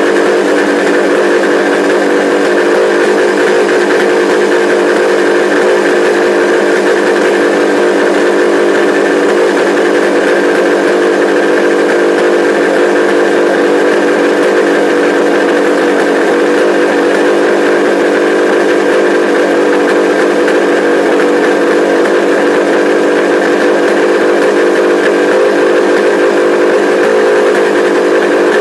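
Kawasaki H1 500's three-cylinder two-stroke engine running at steady revs, an unchanging whistling drone.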